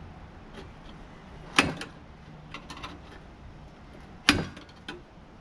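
Two sharp knocks about two and a half seconds apart, with lighter clicks and taps between, from parts and tools being handled while a tankless water heater is taken apart.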